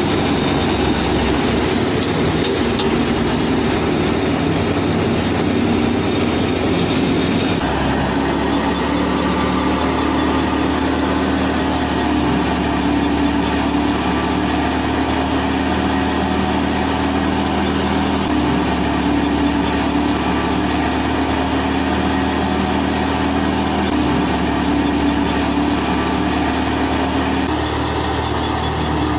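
Small motor of a homemade miniature tractor running steadily under load. The drone's pitch and tone shift abruptly a few times.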